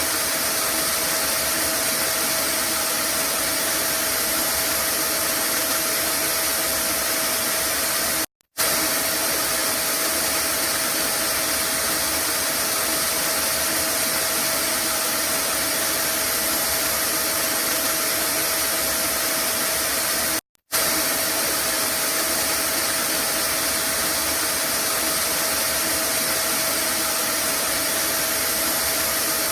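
Vacuum cleaner running steadily: an even rushing of air with a steady motor hum and a high whine. It cuts out for a split second twice, about eight and twenty seconds in.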